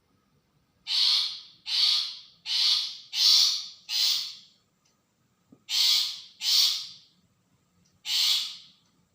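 Long-tailed shrike giving harsh, rasping scolding calls: a run of five in quick succession, a pause, then two more and a final one.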